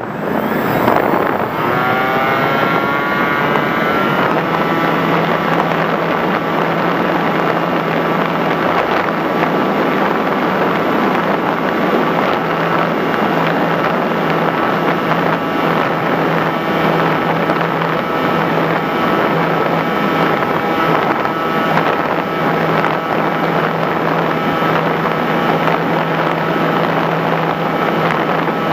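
Electric motor and propeller of an FPV Raptor model plane, with a whine that rises over the first few seconds and then holds steady under a heavy rush of air noise.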